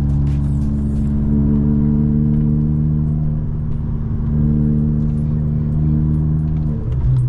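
Volkswagen Golf Mk5's 1.4 FSI four-cylinder petrol engine running at steady revs under way, with faint light clinking over it. Near the end the revs dip briefly, then climb again.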